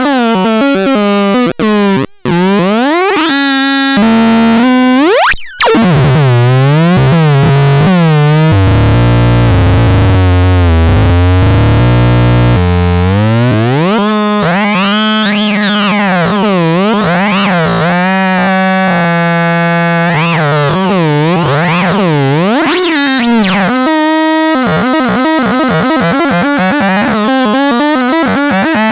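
Electronic synthesizer tones sliding up and down in pitch, with the brightness of the sound sweeping in waves. There are two short cut-outs in the first six seconds, and a deep bass stretch of about four seconds in the middle.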